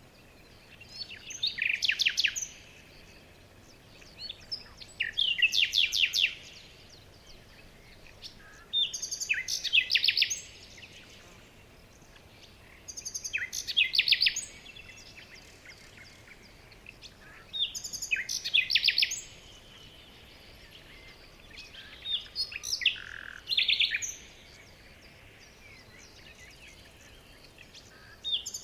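A songbird singing a short, fast trilled phrase of rapid high notes, repeated about every four seconds, with a few softer chirps between phrases.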